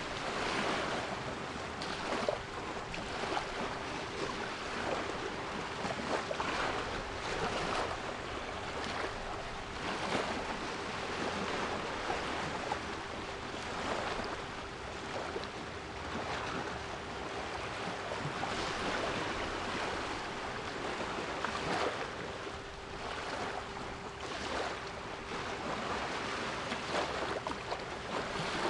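Sea waves surging and washing in, swelling every few seconds, with a steady 396 Hz pure tone held under them.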